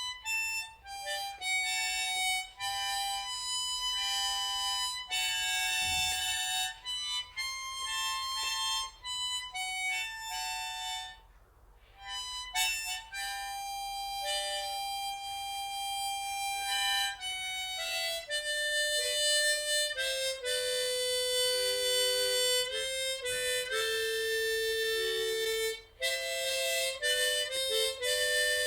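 Harmonica playing a slow melody of held notes, with a brief pause about eleven seconds in.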